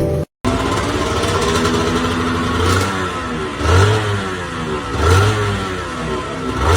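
Honda NSR150SP single-cylinder two-stroke engine revved through its exhaust, blipped up and back down several times between steady running, with the revs peaking about four seconds in, about five seconds in and at the end.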